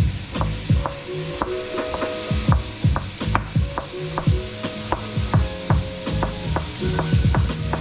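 Kitchen knife chopping on a cutting board in a steady run of knocks, about two to three strokes a second, each with a short woody ring.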